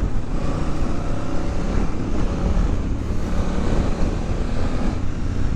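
Honda Africa Twin's parallel-twin engine running under way, with wind rushing over a helmet-mounted camera's microphone.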